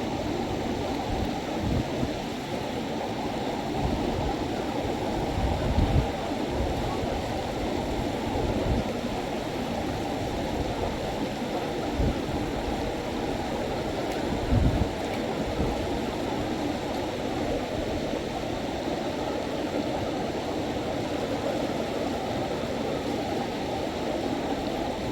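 River water rushing steadily over its bed, with a few short low thumps.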